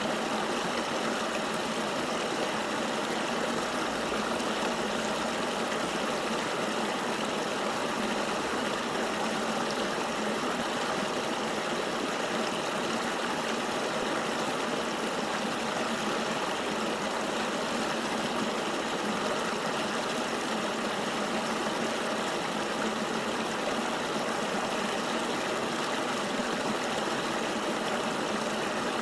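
Steady rushing of a flowing river: an even wash of water noise with no single splashes standing out and little deep rumble.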